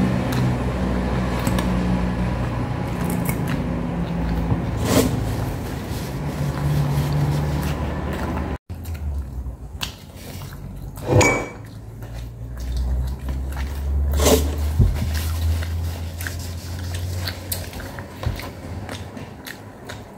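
A person biting and chewing a soft burger, with a few louder wet mouth sounds spaced through. A low steady hum underneath cuts off abruptly a little under halfway through.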